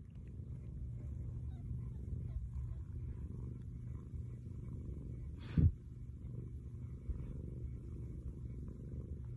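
Cat purring steadily, a continuous low rumble close to the microphone. About halfway through there is one short, sharp bump.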